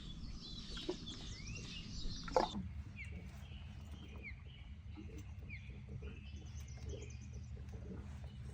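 Birds chirping, with short repeated up-slurred calls, over a steady low hum, with two sharp knocks in the first few seconds.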